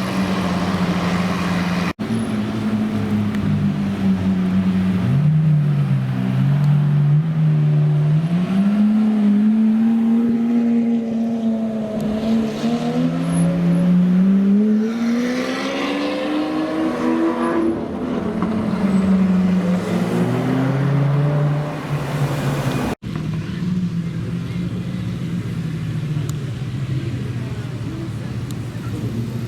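Supercar engines running loudly: a steady idle-like drone, then revs rising and falling several times in the middle as the cars rev and pull away, settling back to a steady drone near the end.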